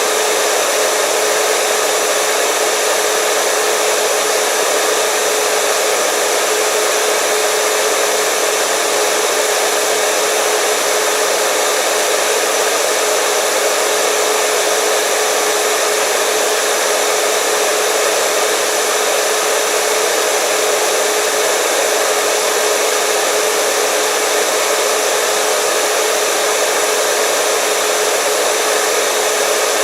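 Hair dryer running steadily: a constant blowing rush with a steady hum from its motor and fan, unchanging in pitch and level.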